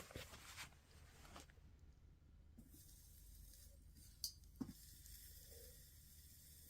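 Near silence with a faint steady hiss, some faint rustling in the first second and a half, and two sharp clicks close together about four seconds in.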